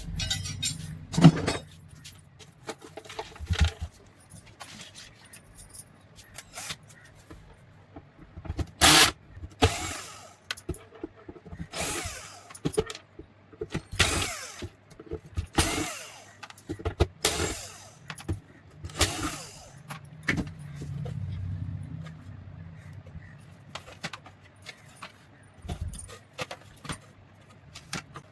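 Intermittent metallic clinking and scraping from small metal parts being handled, in about a dozen short bursts, with a faint low hum for a few seconds after the middle.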